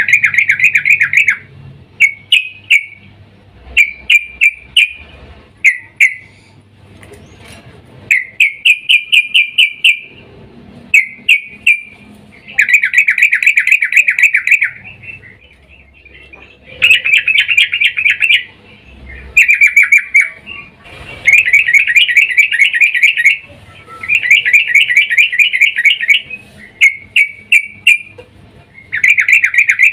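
Yellow-vented bulbul (trucukan) giving a female's chattering call, which bird keepers use to lure males into singing. Bursts of fast, evenly repeated notes, each lasting one to two seconds, come again and again with short gaps between them.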